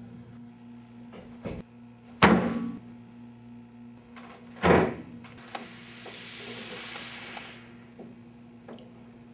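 Two loud slams about two and a half seconds apart, each dying away quickly, followed by a soft hiss lasting about a second and a half, over a steady low electrical hum.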